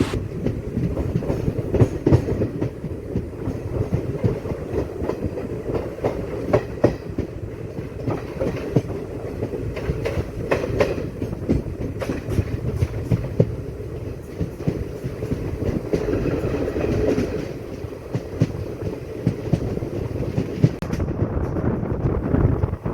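Passenger train running on the track, a steady rumble with the wheels clattering over the rail joints in irregular clicks.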